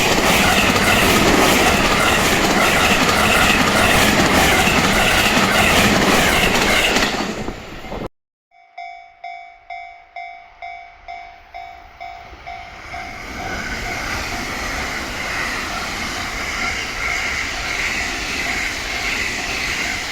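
A JR Kyoto Line train passes close by with loud, steady running noise and a quick clatter of wheels over rail joints, then breaks off abruptly. Then a level-crossing warning bell rings in even, ringing strikes about three times a second, while the noise of the next approaching train builds and covers it.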